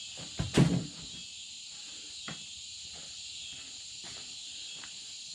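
Steady high chorus of insects in the background, with one heavy thud about half a second in and a few faint knocks.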